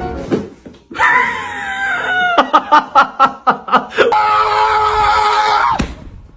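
A voice crying out at high pitch: sliding cries, then a run of about six quick loud pulses, then one long held cry that cuts off suddenly near the end.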